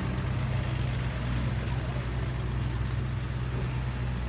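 Heavy diesel engine running steadily at one speed, a low, even drone with no revving.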